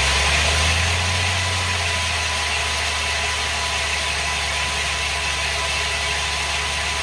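Borewell drilling rig's engine idling steadily with a low hum, easing slightly in loudness.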